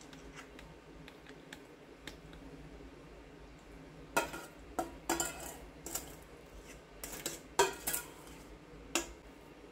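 Kitchen utensils knocking and scraping against dishware. There are a few faint clicks at first, then a run of sharper clinks and short scrapes through the second half.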